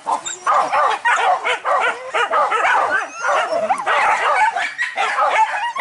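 A pack of hunting dogs barking and yelping excitedly, many voices overlapping in a continuous chorus of high, bending yelps.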